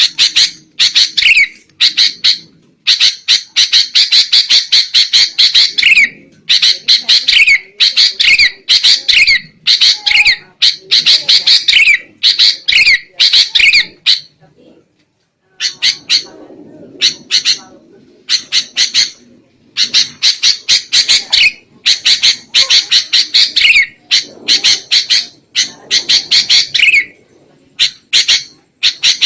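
Sooty-headed bulbul (kutilang) giving harsh, rapid chattering calls in loud bursts, one after another, with a brief pause about halfway. This is the agitated 'ribut' calling used as a lure for wild bulbuls.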